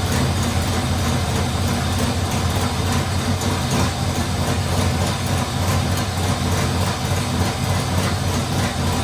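Cammed GM LS3 6.2-litre V8 running steadily at idle on one of its first start-ups.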